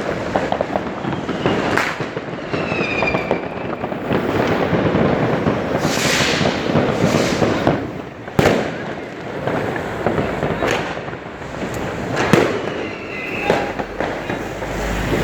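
Massed New Year's fireworks and firecrackers going off without pause: a dense crackle with repeated sharp bangs, the loudest about eight seconds in. A short falling whistle comes near three seconds in.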